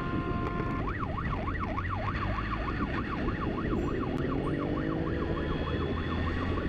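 Police siren wailing in a fast up-and-down yelp that starts about a second in and quickens, over the steady rumble of a vehicle driving at speed.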